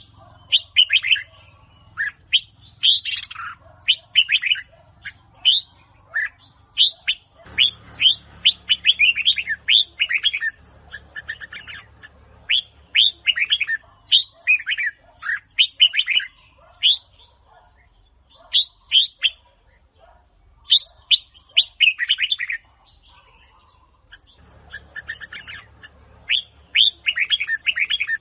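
Red-whiskered bulbul singing: phrases of quick, clear notes that each sweep down in pitch, run together in rapid bursts with short pauses between.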